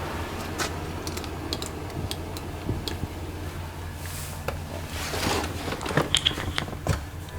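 Scattered clicks, knocks and a short rustle from handling parts of the vehicle, busiest from about five to seven seconds in, over the low steady hum of the Range Rover Sport's supercharged V8 idling.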